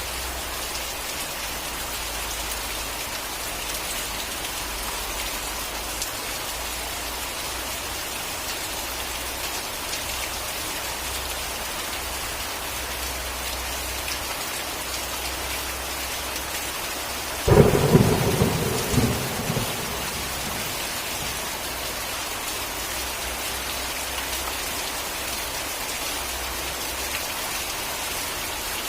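Steady rain falling throughout. A single close thunderclap breaks in sharply about two-thirds of the way through and rumbles on for a couple of seconds.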